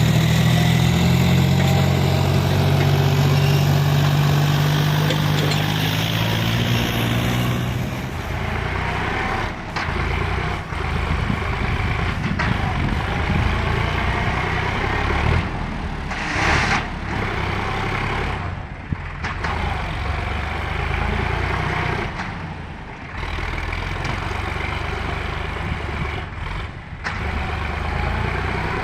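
Tractor diesel engine running hard with a loaded trolley. Its note is strong and steady for the first several seconds, then turns rougher and uneven, with brief dips.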